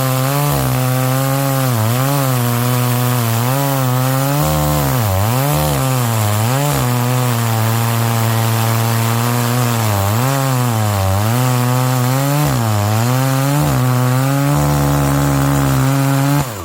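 Two-stroke chainsaw cutting firewood, the engine pitch dipping again and again as the chain bites into the wood and recovering in between. Just before the end the engine drops back sharply to a lower, quieter run.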